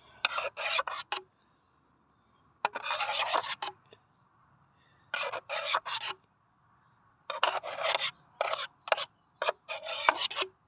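A tool scraping and working through thick, greasy oil sludge in a removed engine sump, in groups of short scrapes: several quick strokes at the start, a longer scrape about three seconds in, another group near the middle and a run of strokes in the last third.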